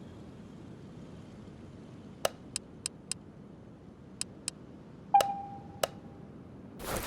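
A series of sharp, separate clicks and taps at uneven spacing. About five seconds in comes a louder knock with a short ringing tone, and right at the end a brief burst of hiss.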